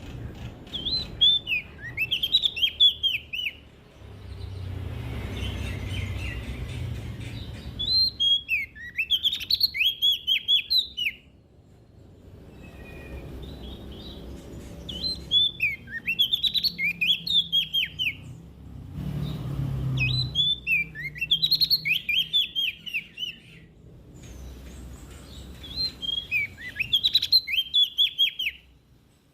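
Prenjak daun songbird singing in about six short bursts of rapid, sharply falling high chirps, each burst a few seconds apart, over a low background rumble.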